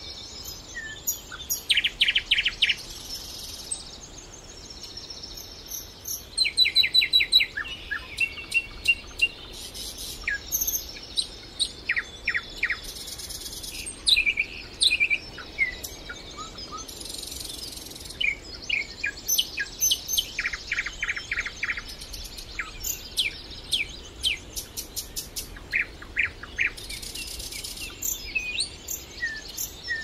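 Songbirds singing, with many short high chirps, quick runs of rapidly repeated notes and brief trills overlapping throughout, over a faint steady background hiss.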